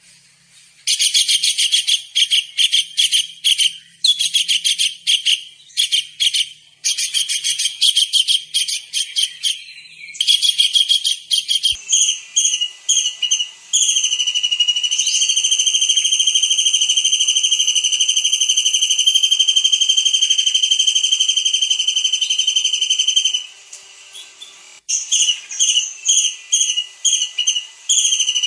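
Small kingfisher (tengkek udang) calling hard: rapid high-pitched trilled bursts a second or two long, then a single long high whistle held for about nine seconds, then the quick trills again near the end.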